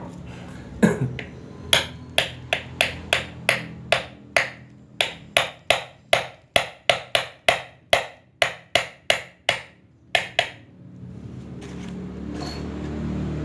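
A hammer tapping steadily on a water pump part, about 25 light, sharp strikes at two to three a second, stopping about ten and a half seconds in.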